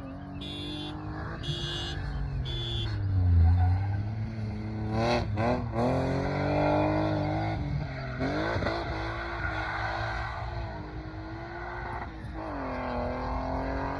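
BMW drift car's engine revving up and down while being drifted, its pitch rising and falling several times. A short high beep repeats about once a second through the first few seconds.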